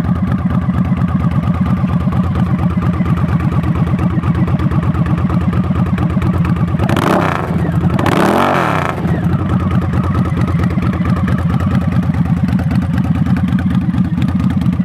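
Harley-Davidson V-Rod Muscle's liquid-cooled Revolution V-twin idling with an even pulse, blipped twice near the middle before settling back to idle.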